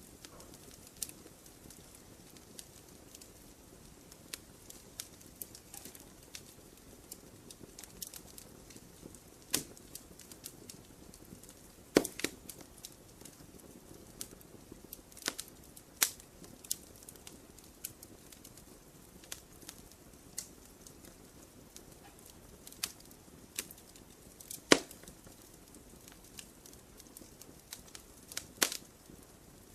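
Wood fire crackling, with irregular sharp pops and snaps over a soft steady hiss; the loudest pops come about twelve and twenty-five seconds in.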